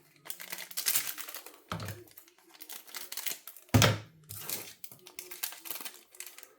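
Foil wrapper of a small Pokémon booster pack crinkling and rustling in bursts as it is worked open by hand, with two dull thuds, the louder about four seconds in.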